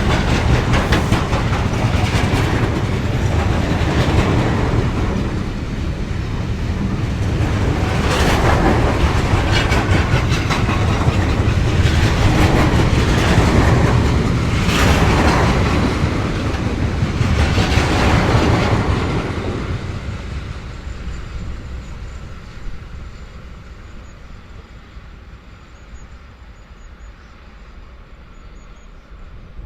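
Train passing close by, its wheels clattering over the rail joints in repeated knocks, then fading away as it leaves, about two-thirds of the way in.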